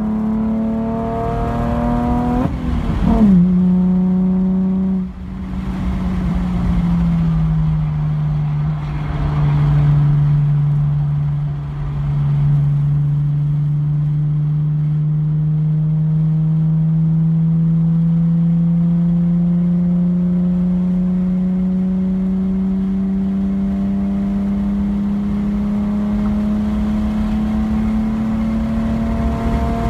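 Car engine heard from inside the car at speed. The revs rise, fall sharply about three seconds in, stay low for a while, then climb slowly and steadily through the second half as the car accelerates to about 90 mph, with road and wind noise underneath.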